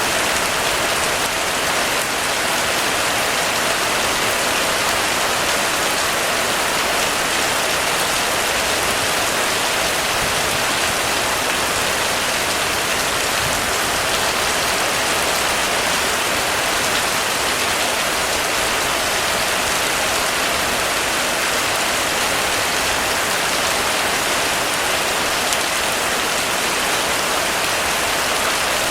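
Heavy rain falling steadily on a metal roof, a dense, even patter with no lulls.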